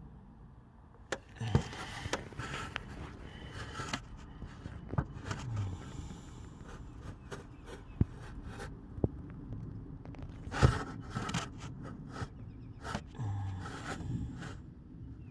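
Irregular knocks, clicks and scrapes of hard objects being handled and set down, with a few sharper knocks, the loudest about ten and a half seconds in.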